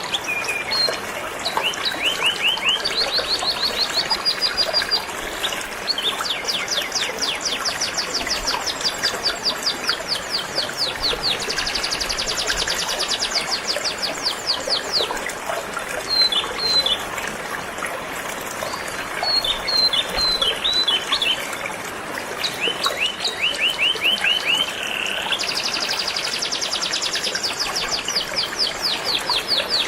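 Domestic canary singing in long rapid trills of repeated notes, the phrases shifting in pitch with short breaks between them, over the steady rush of flowing river water.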